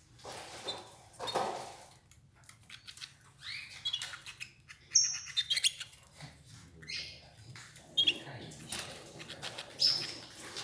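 Pet canaries giving short, high chirps among scattered sharp clicks and rustles as they peck at escarole leaves and move about the cage.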